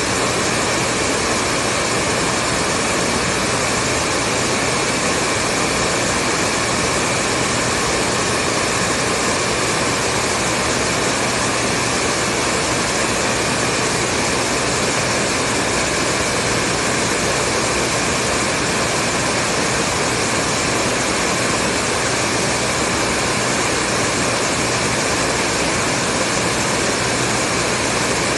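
Hair dryer running steadily: an even rush of blown air over a faint motor hum, unchanging in pitch and level.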